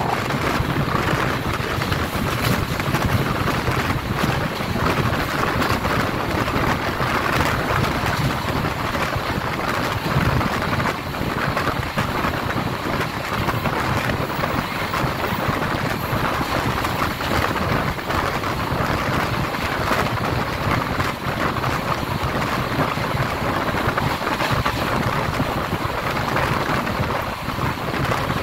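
Express passenger train running at speed: a steady rush of wheel-on-rail rumble with wind buffeting the microphone.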